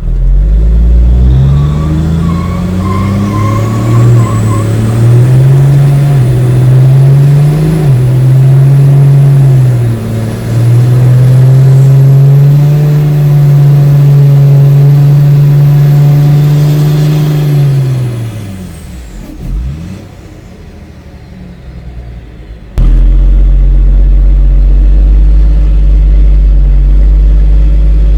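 Drag-racing truck's diesel engine at full throttle, its pitch climbing and dropping back several times through gear changes, with a high turbo whine rising along with it. After about 18 seconds the pitch falls and the sound fades. About 23 seconds in it gives way abruptly to a loud, steady low engine rumble.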